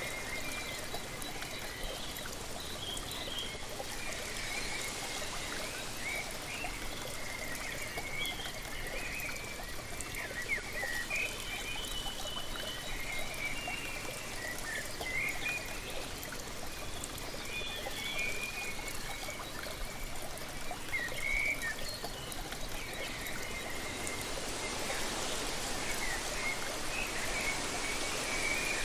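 Steady rush of falling water from a waterfall, with many short bird chirps and trills over it.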